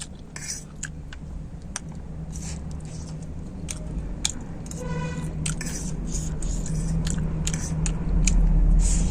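Close-up mouth sounds of someone chewing noodles: irregular wet clicks and smacks. A low rumble grows steadily louder underneath and is loudest near the end.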